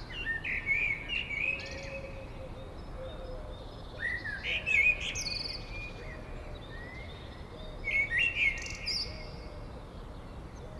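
Birdsong: a bird singing short phrases of quick chirping notes, one phrase about every four seconds, over a faint steady background hiss.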